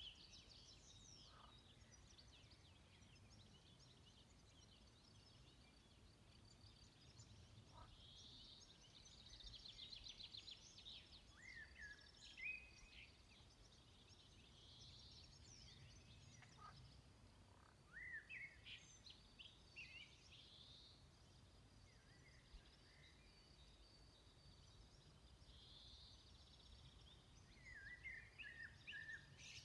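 Several songbirds singing faintly, with short chirps, trills and whistles that come in bursts, over a low steady rumble of outdoor background noise.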